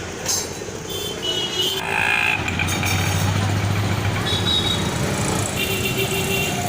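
A vehicle engine running steadily, louder from about two seconds in.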